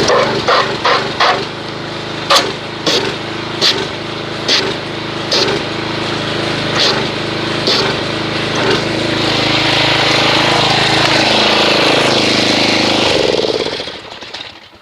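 Pressure washer running, its jet spraying into a bucket of car-wash soap solution to whip up suds, with a steady motor hum under the hiss of the spray and scattered sharp slaps in the first half. It cuts off about a second before the end.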